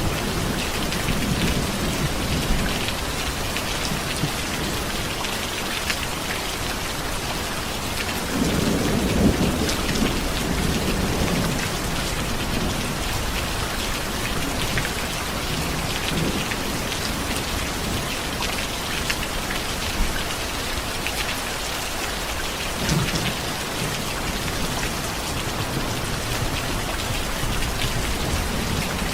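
Steady rain with low rolls of thunder, the biggest about eight to twelve seconds in and smaller ones later.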